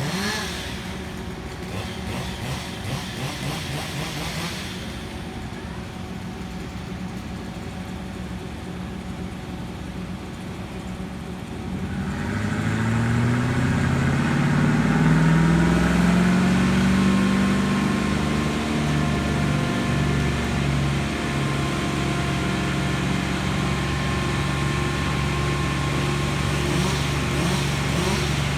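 A large engine runs low and steady, then about twelve seconds in revs up, gets louder and holds a steady higher speed.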